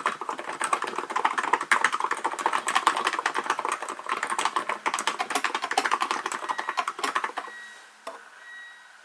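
Fast continuous typing on a Hansung GK898B electrostatic capacitive keyboard, a dense run of soft keystrokes that stops about seven seconds in. After it, only faint brief high tones remain.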